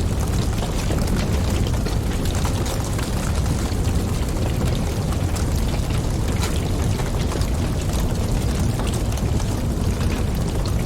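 Wood fire crackling with frequent small pops over a steady low rushing roar of flames and wind.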